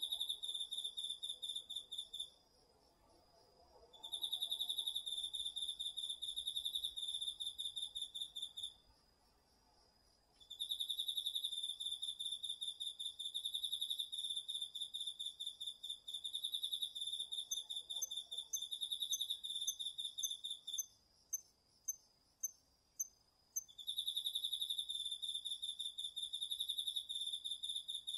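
Night chorus of autumn crickets and other insects. A loud, pulsing trill runs in long phrases of several seconds with brief pauses, over a fainter, steady, higher trill. During a pause about two-thirds of the way through, another insect gives a quick series of about ten short, higher chirps.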